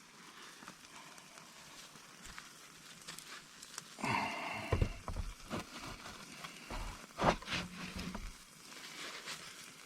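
Campfire crackling softly with scattered small pops, with a few knocks and scrapes of cookware being handled about four seconds in and a sharp knock a little after seven seconds.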